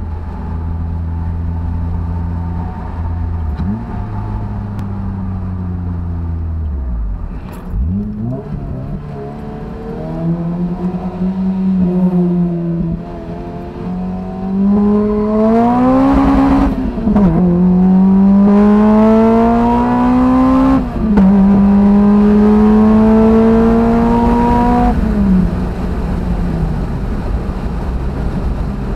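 Toyota MR2 Spyder's 2ZZ-GE four-cylinder engine, its intake heard from inside the cabin. It runs steadily at first, then pulls hard through the gears: the pitch climbs, drops sharply at each of two upshifts, and falls away as the car slows near the end.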